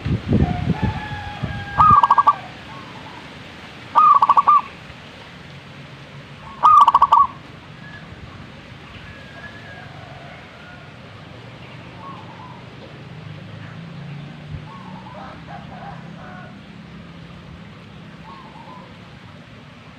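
A bird giving a short, loud call three times, a couple of seconds apart, in the first seven seconds, then only faint, scattered calls. Wind rumbles on the microphone during the first two seconds.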